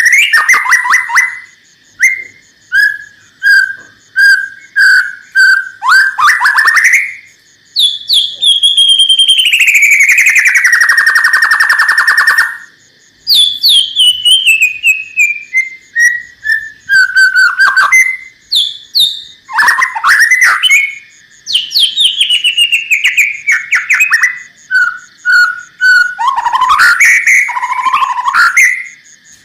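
White-rumped shama (murai batu) singing loudly: runs of short whistled notes, a long slurred note that falls in pitch over about four seconds, and series of notes stepping down in pitch.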